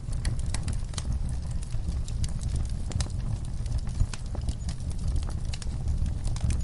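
Wood fire in a fireplace crackling, with frequent sharp pops and snaps over a low rumble of the flames; one pop stands out about four seconds in.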